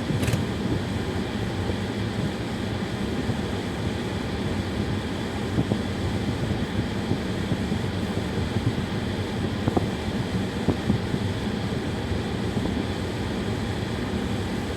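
Steady engine and tyre rumble of a car being driven, heard from inside the cabin, with a single short click at the start.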